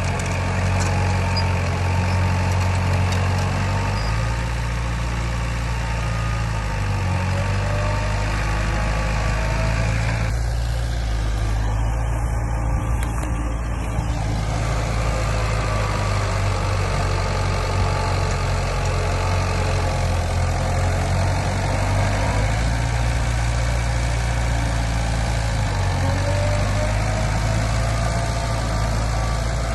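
Heavy diesel engine of earthmoving equipment running steadily, its low note shifting a few times as the load changes.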